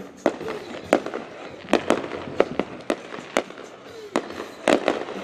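Aerial fireworks exploding: a string of sharp bangs and pops at irregular intervals, with a quick cluster of reports near the end.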